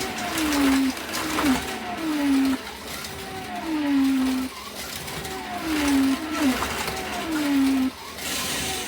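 1:32 scale slot cars running on the track, their small electric motors whining. The pitch slides down and back up over and over as the cars slow and speed up around the circuit.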